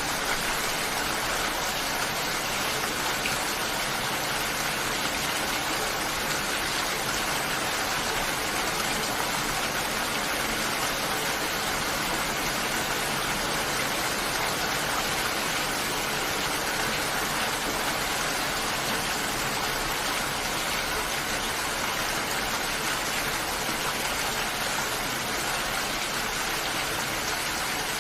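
Steady, even rain falling, a continuous dense hiss with no breaks.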